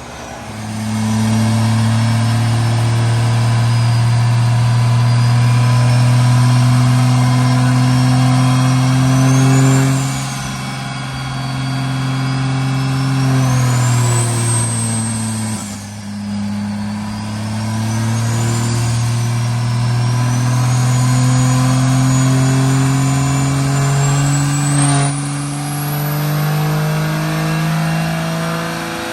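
Truck engine running hard at held speeds, its pitch stepping up and down every few seconds, with a thin high whistle gliding up and down over it.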